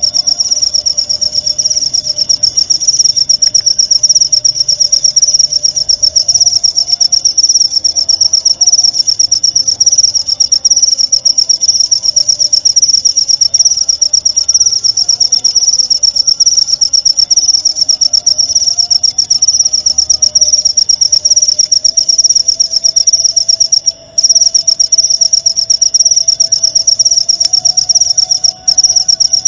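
Cricket chirping in one long, unbroken, high-pitched trill with a fast, even pulse, cutting out briefly twice near the end.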